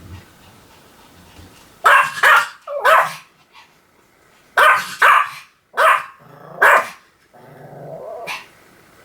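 Pomeranian barking: sharp high yaps, three about two seconds in and four more a little later, then a short low growl near the end.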